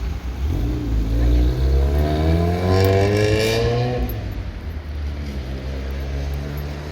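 A motor vehicle accelerating past, its engine note rising steadily for about three seconds, over a constant low rumble of wind on the microphone.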